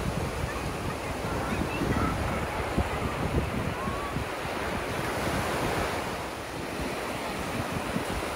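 Ocean surf breaking and washing ashore in a steady rush, with wind buffeting the microphone in low, uneven gusts.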